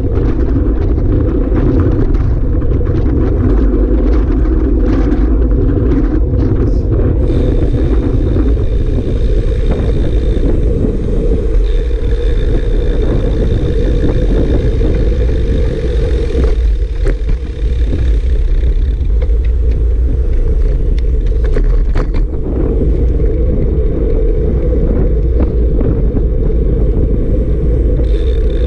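Strong wind buffeting the microphone: a loud, steady, low rumble with no letup, over a vehicle running underneath.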